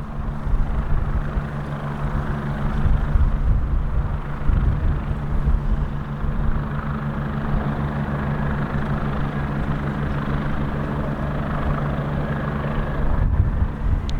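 Mitsubishi F-2 fighter's single turbofan engine running with a steady jet rush and hum, with strong wind buffeting the microphone.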